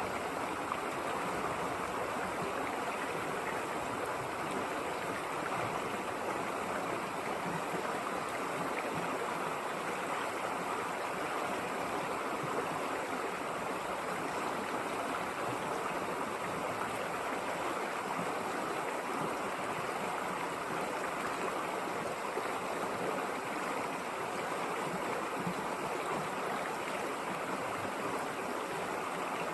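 River water flowing, an even, unbroken sound of running water.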